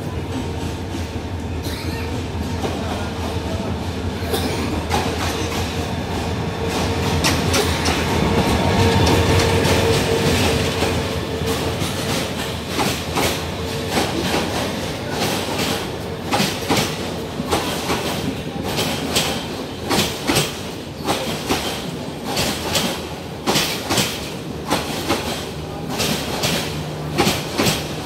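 Metre-gauge diesel-hauled passenger train, the Jamuna Express, running in past the platform. A steady engine hum builds and is loudest about eight to ten seconds in. The coaches then pass close by with a regular clickety-clack of wheels over the rail joints.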